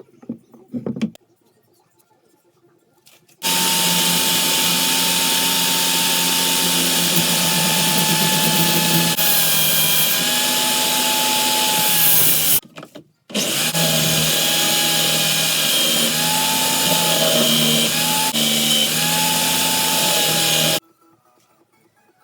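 An electric power tool running in two long runs, one of about nine seconds and one of about seven, with a short stop between. Its whine sags briefly in pitch now and then.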